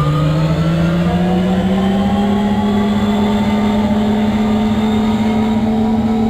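Lisbon Metro ML90 train's traction motors whining as the train accelerates, over the steady rumble of the wheels on the track. The pitch rises through the first few seconds and then levels off as the train reaches running speed.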